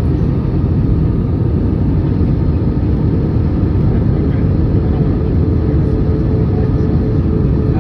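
Airliner cabin noise heard from inside at a window seat: a steady, loud rumble of engines and rushing air, with a faint constant hum over it.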